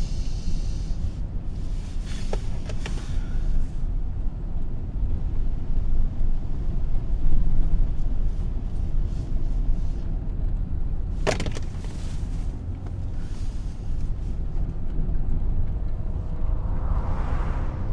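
Car driving, with a steady low rumble throughout and a single sharp click about eleven seconds in.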